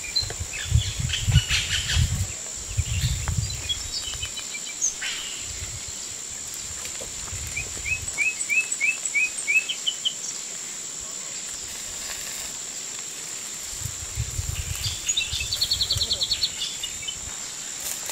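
Outdoor ambience: a steady high-pitched insect drone with birds chirping over it, including a quick run of about six chirps midway and a fast trill near the end. Bursts of low rumble come in twice, early on and again near the end.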